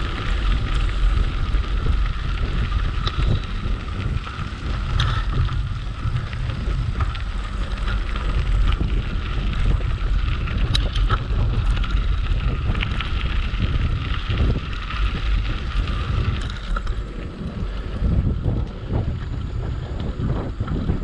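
Wind buffeting the microphone during a bicycle ride on a trail, over a steady low rumble with a few scattered light clicks.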